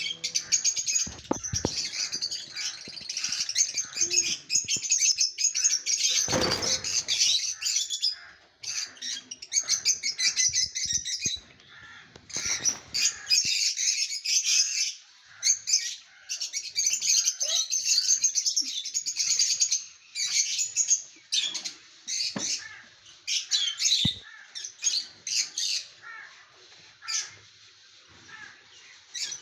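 A colony of lutino lovebirds chattering: a dense stream of rapid, high, shrill chirps from several birds that thins out to scattered calls after about twenty seconds. A few sharp knocks and a louder thump about six seconds in, fitting wing flaps or birds landing on the cage.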